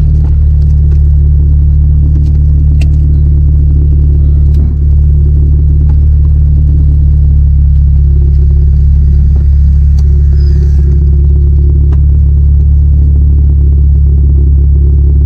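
The 2ZZ-GE Corolla's 1.8-litre four-cylinder engine and road noise, heard from inside the cabin as a loud, steady low drone while the car is driven, with a brief dip about five seconds in.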